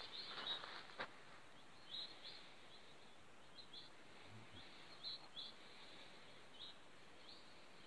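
Faint, short, high bird chirps, scattered every second or so, over quiet outdoor background, with a light click about a second in.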